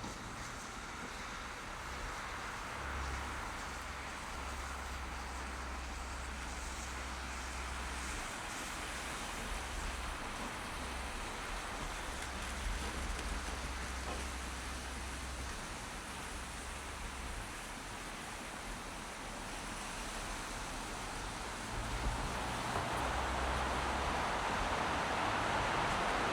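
Car driving: steady tyre and road noise with a low rumble underneath, growing louder near the end.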